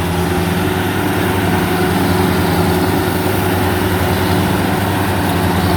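Rice combine harvester's diesel engine running steadily under load, a constant low hum with mechanical noise above it, as the machine cuts through waterlogged paddy.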